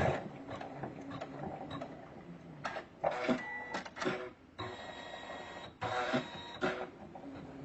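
Usha Janome Memory Craft computerized embroidery machine stitching, a mechanical run of irregular clicks and short whirring tones.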